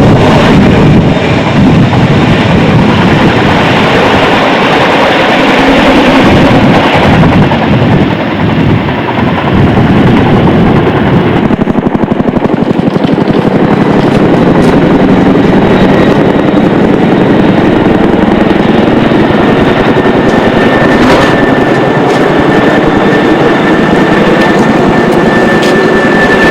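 CH-47 Chinook tandem-rotor helicopter running close by: a loud, continuous rapid rotor chop mixed with engine noise. A steady high whine comes in partway through.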